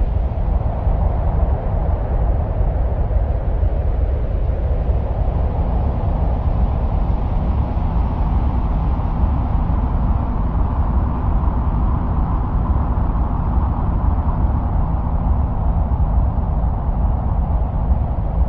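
Steady wind-like noise presented as the sound of Mars: a heavy, deep rumble under a hiss whose pitch drifts slowly higher around the middle and then eases back down.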